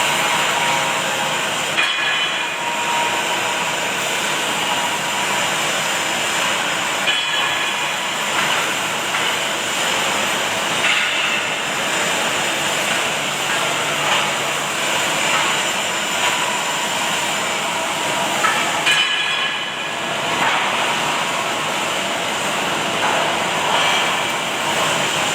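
Automatic welding machine running, a steady hiss and crackle of the arc amid factory noise, broken a few times by sharp metallic knocks.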